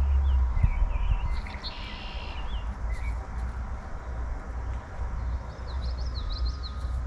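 Small songbirds chirping around a backyard feeder: scattered short calls, a brief buzzy note about two seconds in, and a quick run of rising notes near the end. A low rumble sits underneath, loudest at the start and easing off within the first second.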